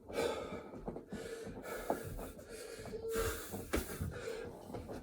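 A man breathing hard and fast from exertion during burpees, with heavy gasping breaths in and out at about one a second.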